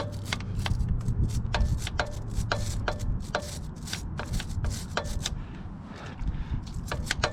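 Hand rubbing grime off a motorcycle chain and rear sprocket with a paper towel: a run of sharp, irregular clicks and scrapes, a few a second, over a low rumble.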